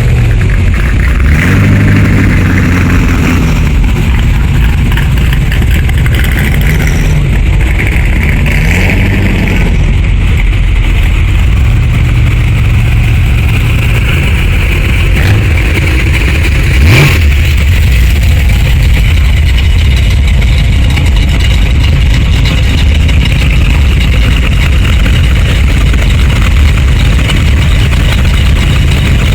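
Hot rods and classic cars in a parade driving past, engines running with a few revs that rise and fall. One sharp pop comes a little over halfway through.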